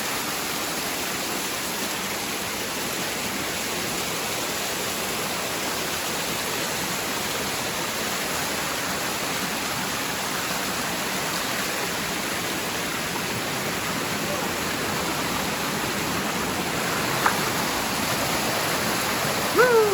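Steady, even rushing of a waterfall. A single brief click comes near the end, followed by a short vocal sound.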